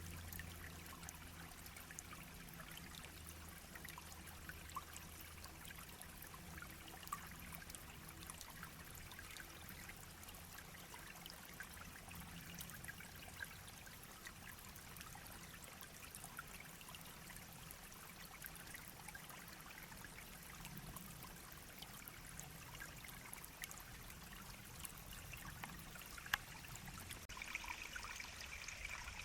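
Small shallow brook babbling and trickling: a faint, steady rush of running water flecked with tiny splashes.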